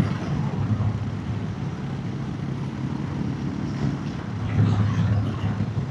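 Royal Enfield motorcycle engine running at road speed, a steady low drone under wind and road noise. The engine note swells briefly about four and a half seconds in.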